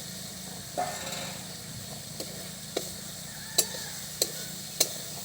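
Fried ridge gourd pieces going into a pan of hot spiced masala with a brief sizzle, then a spatula stirring them, knocking sharply against the pan five times.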